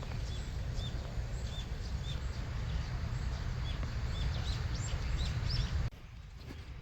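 Small birds chirping, short high calls repeated every half second or so, over a steady low rumble that cuts off sharply near the end.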